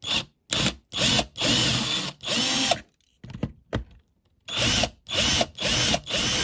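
Small power drill run in short stop-start bursts, drilling out the rivets that hold the base of a diecast model car. The motor spins up and stops about ten times, with a short pause in the middle.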